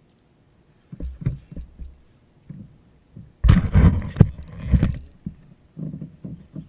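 Knocks and thumps against a plastic fishing kayak as a hooked fish is fought, with a loud stretch of rough noise from about halfway in.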